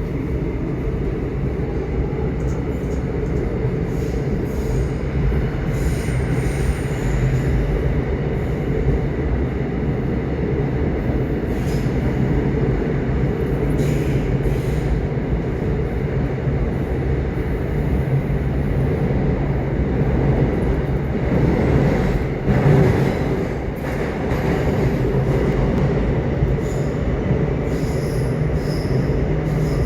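Subway train in motion: a steady low rumble of wheels on the track, with brief faint high-pitched wheel squeals now and then.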